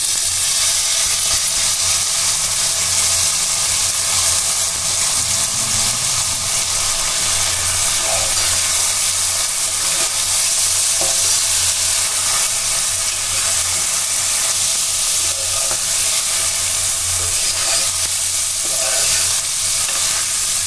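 Hot oil sizzling in a pressure cooker as soaked, drained basmati rice is fried and stirred with a spatula among vegetables and nuts; a steady hiss with a low hum underneath.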